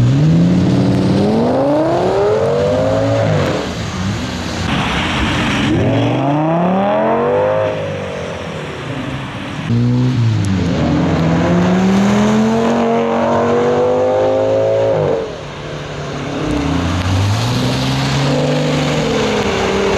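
Straight-piped V10 engine of a modified Audi S8 accelerating hard, its pitch climbing through the revs and dropping sharply several times as it changes gear or lifts off, in four separate pulls.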